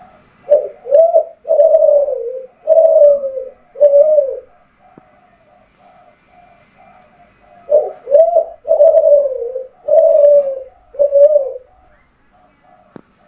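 Kelantan spotted dove (derkuku) cooing its song: two phrases of five low, bending coos, the second starting a few seconds after the first ends.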